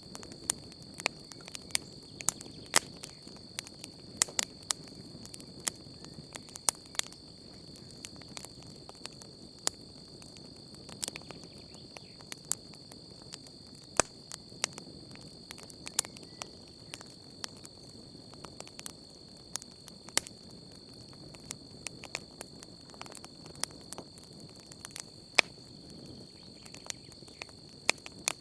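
Wood campfire crackling, with sharp irregular pops coming every fraction of a second to every second or two. Under it runs a steady, high-pitched chirring of night crickets.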